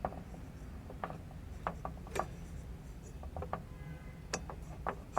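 Irregular metallic clicks and light knocks from an auger belt being worked onto a snowblower's pulleys and tensioner by hand.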